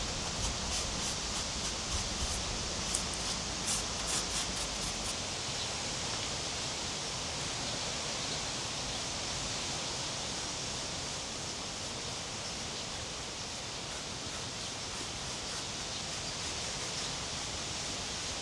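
Steady rushing outdoor noise, even and unbroken, with a scatter of small clicks or ticks during the first five seconds.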